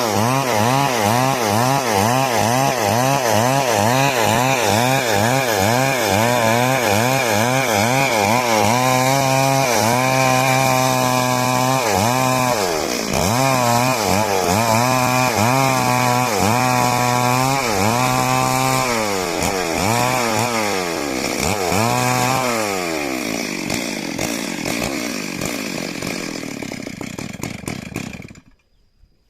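Chainsaw cutting wood at high revs. Its engine pitch wavers quickly and evenly at first, then swings up and down more slowly with several dips. After about three-quarters of the way through, the pitch falls as the saw winds down, and the sound cuts out briefly near the end.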